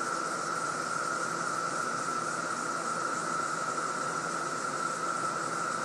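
Chorus of Brood II periodical cicadas droning steadily: a continuous whine held at one pitch over an even hiss, with no breaks.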